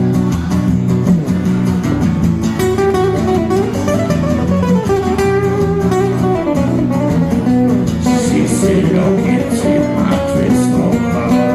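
Acoustic guitar played in an instrumental passage of a song, a steady run of plucked and strummed notes.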